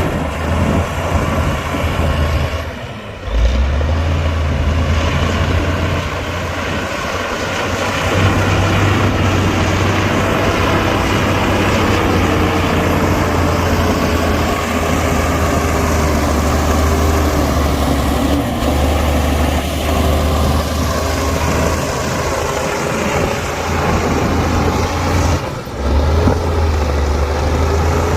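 Heavy diesel engine of earthmoving machinery running steadily, its pitch slowly wandering up and down, with two brief dips, about three seconds in and near the end.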